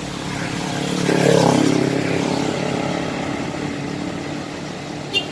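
An intercity bus's engine passing close by as it drives into the terminal, loudest about a second and a half in and then fading. A short sharp click comes near the end.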